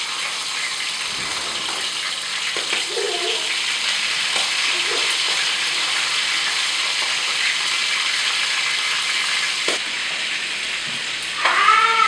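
Breaded frog legs frying in a skillet of hot oil, a steady sizzle.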